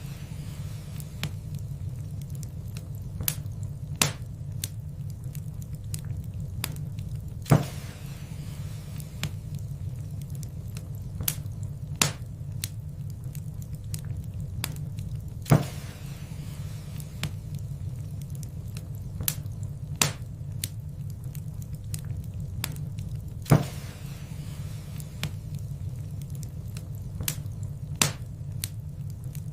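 Wood fire crackling in a fireplace: scattered sharp pops and snaps over a steady low rumble of the flames, with a louder snap about every eight seconds.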